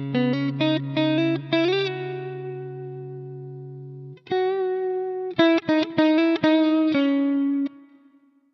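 Electric guitar played through a Mooer GE200 amp modeler with a cabinet impulse response: a run of quickly picked notes, a low note left to ring for a couple of seconds, then a second quick phrase that stops and rings out near the end.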